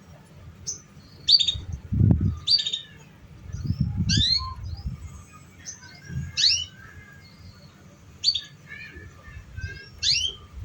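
Canary chirping in short, sharp high notes repeated about once a second, a lure call for young canaries learning to sing. A few low thumps come in between the chirps.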